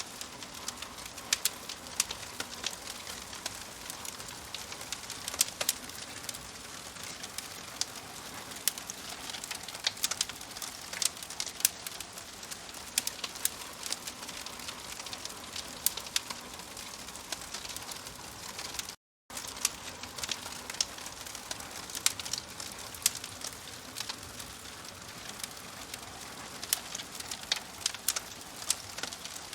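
Wood fire in a fireplace crackling: a steady hiss with frequent, irregular sharp pops, the sound cutting out briefly about two-thirds of the way through.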